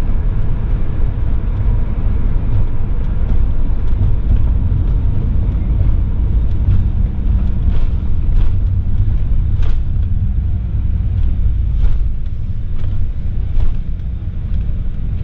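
2018 Coachmen Leprechaun Class C motorhome driving at road speed: a steady low road-and-engine rumble, with scattered light clicks and rattles in the second half.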